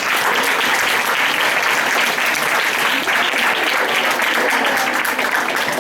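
Audience applauding: a steady, dense patter of many hands clapping that begins suddenly just before and carries on evenly.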